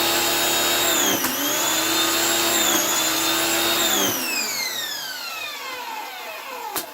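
Simoniz 2000 electric pressure washer's motor and pump running with a steady whine, dipping briefly twice, then cutting off about four seconds in and winding down with a falling whine. A sharp click comes near the end. The pump is working again but gives little pressure.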